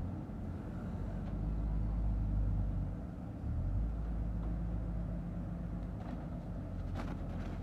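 A.K.M Koman 500 silage packing machine running, a steady low mechanical drone that dips briefly about three seconds in, with a few sharp knocks near the end.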